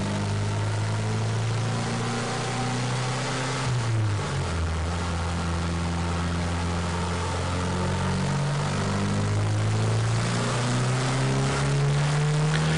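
Turbocharged truck engine running under load on a chassis dyno during a boost run. Its pitch steps down twice, about four seconds in and again past eight seconds, then climbs slowly toward the end.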